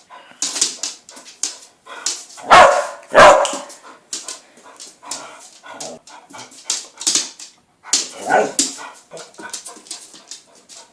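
Dog barking and yipping in excited play, a string of short sounds with two loud barks about two and a half and three seconds in.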